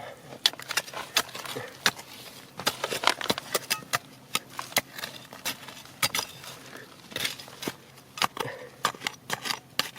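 Stones and gravel knocking and clattering together in a rapid, irregular series of sharp clicks and knocks.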